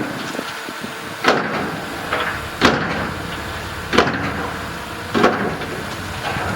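Heavy diesel machinery, likely a bulldozer, running steadily, with a loud burst about every second and a quarter that fades away each time.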